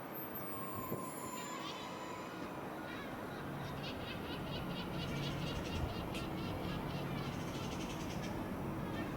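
A small bird chirping in a quick run of short high notes, about five a second, over steady railway-station background with a low hum.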